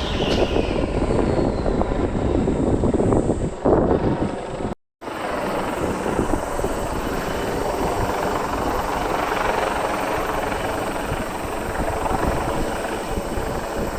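Formula E race cars heard from beside the circuit: a high electric-motor whine falls in pitch as a car passes at the start. After a brief cut comes a steady, dense mechanical whirr.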